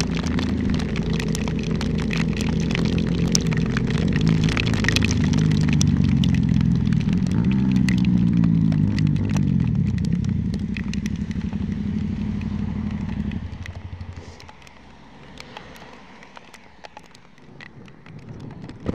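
Aprilia Shiver 900's V-twin engine running, its pitch falling as the motorcycle slows, then stopping about two-thirds of the way through. Afterwards only scattered ticking and patter of heavy rain on the camera remain.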